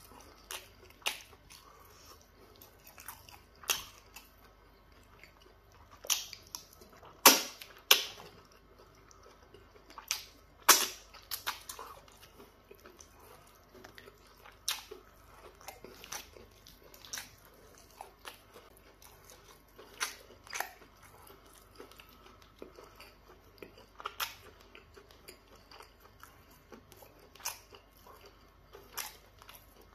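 Eating sounds: chewing and wet mouth noises over pounded yam fufu, peanut butter soup and meat eaten by hand, as irregular sharp clicks, the loudest two about seven and eleven seconds in.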